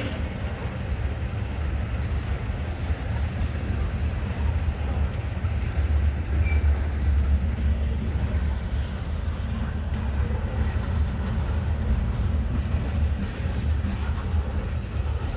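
Diesel locomotives shoving a string of hopper cars, a steady low rumble of engines and rolling cars that swells around the middle.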